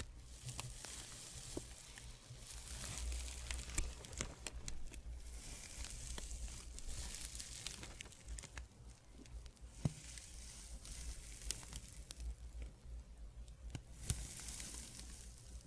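ASMR fabric friction: cloth rubbed close to the microphone, a soft scratchy hiss that rises and falls in slow swells of a couple of seconds each, with small crackles scattered through.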